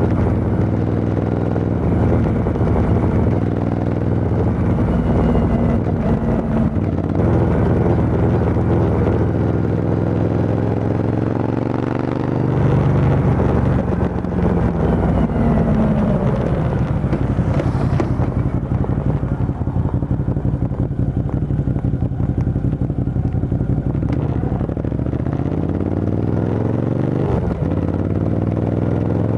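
Motorcycle engine running through an aftermarket Arrow full exhaust system with the dB killer removed, its note shifting up and down, with a climbing rev in the last few seconds.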